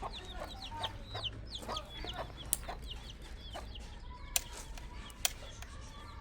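Birds peeping: many short, high, falling calls several times a second, over a steady low hum, with three sharp clicks in the second half.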